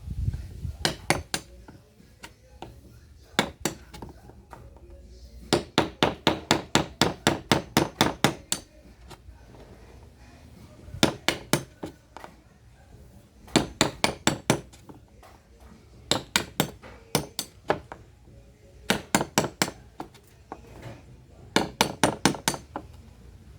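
Hammer blows in quick runs of about four strikes a second, with short pauses between runs, each strike sharp and slightly ringing.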